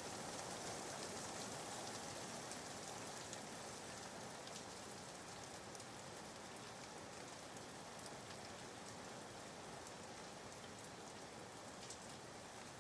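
Steady, soft rain falling: an even hiss with faint scattered raindrop ticks.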